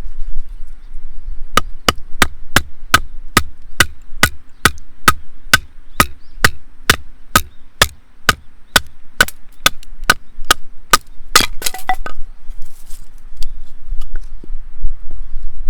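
Wood being chopped with a steady run of sharp, evenly spaced strikes, about two to three a second. About three quarters of the way through come a quick flurry of knocks, then a few scattered ones.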